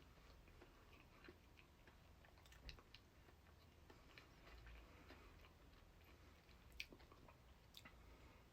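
Faint chewing with soft, irregular mouth clicks and smacks, close to the microphone.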